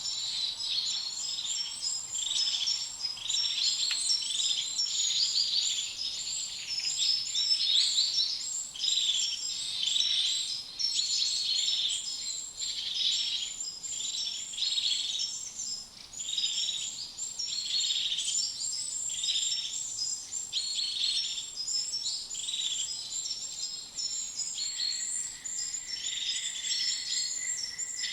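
A chorus of many small birds chirping and twittering, fast high-pitched calls overlapping without a break. About 24 seconds in, a steady high tone joins.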